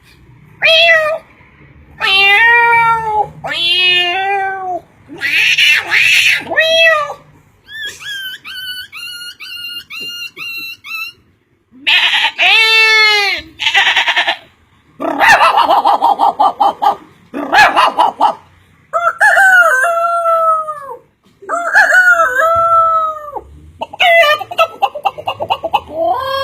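A series of different animal calls, one after another with short pauses between them: pitched, falling cries alternating with stretches of quick repeated notes.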